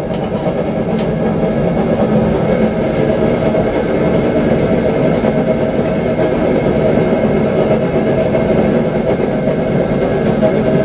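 A forge running steadily with a continuous, even rush of burner or blower noise, with a couple of faint clicks in the first second as the blade is set back in for reheating.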